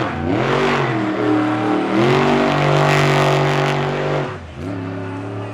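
Monster truck engine revving hard: the pitch climbs, holds at high revs for about two seconds, then drops back to a lower steady speed about four seconds in.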